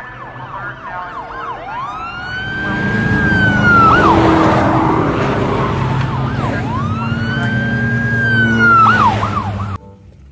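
Police siren: quick yelps at first, then two long wails that each rise, hold high and fall, over a low rumble. It cuts off suddenly near the end.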